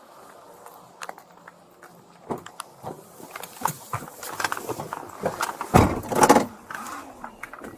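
Rustling, clicks and knocks of gear and clothing against a body-worn camera as an officer moves around a patrol car. The loudest sound is a heavy thump about six seconds in.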